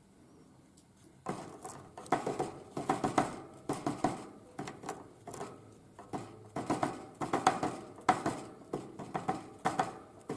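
A tit pecking at sunflower seeds: quick, irregular beak taps in small clusters, starting about a second in.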